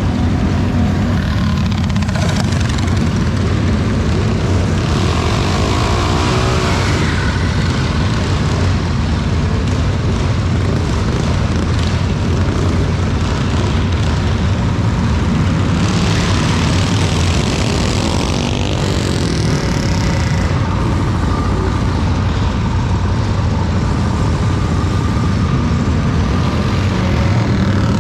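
Steady low rumble of a running vehicle, unbroken throughout.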